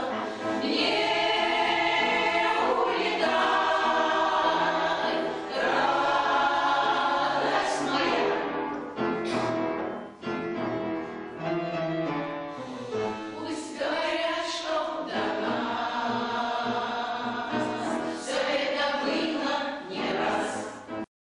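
A choir of veterans singing a song with accompaniment.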